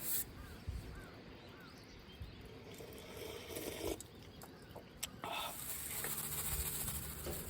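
A bird giving three short chirps over outdoor ambience, with a sharp click at the start and another about five seconds in.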